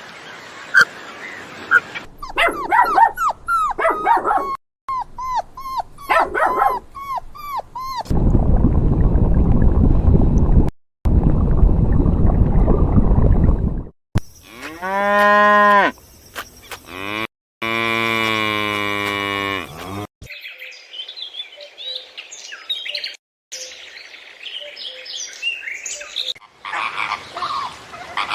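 A string of short animal-call clips cut one after another: quick chirping calls, a long stretch of loud rough noise, then two long drawn-out cow moos, followed by scattered smaller calls.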